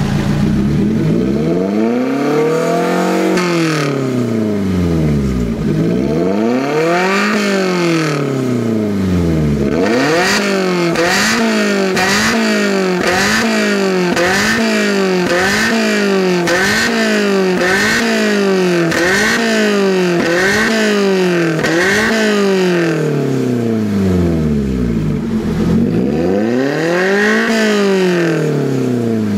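Lotus Elise engine revved repeatedly through a one-off exhaust with its variable valve open. A few slow climbs and falls in revs, then a run of quick blips about one a second, then slower revs again near the end.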